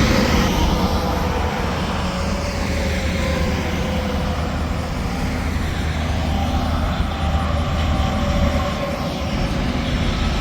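Interstate highway traffic passing at speed, semi-trucks among it: a steady rush of tyre noise over a low diesel drone, with slowly falling tones as vehicles go by.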